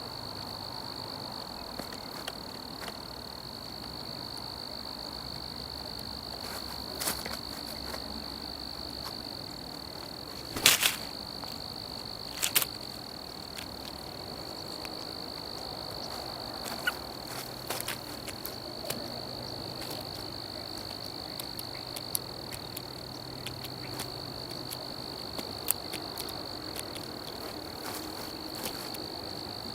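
Crickets trilling in one steady, unbroken high-pitched tone, with a few sharp clicks or taps, the loudest about eleven seconds in and another a couple of seconds later.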